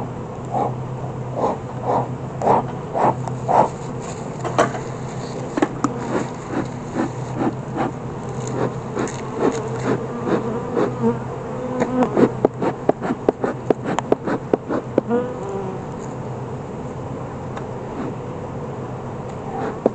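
Honeybees buzzing in a steady hum around an open hive, with many short sharp clicks and knocks over it, densest about twelve to fifteen seconds in, then easing off.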